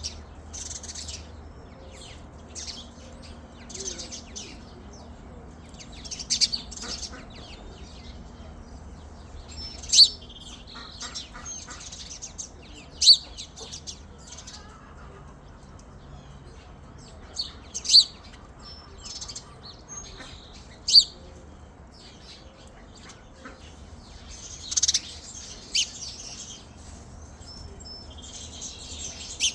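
Birds chirping over and over, with several loud, sharp chirps close by.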